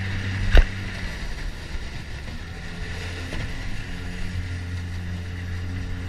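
Mercury 9.9 hp outboard motor running steadily, with one sharp knock about half a second in.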